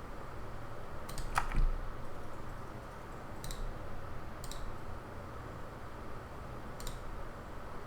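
A handful of separate clicks from a computer keyboard and mouse, about five spread out with pauses between them, over a steady low hiss of background noise.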